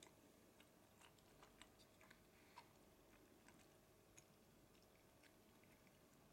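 Faint chewing: a person chewing a mouthful of food with the mouth closed, a few soft, irregular small clicks over very quiet room tone.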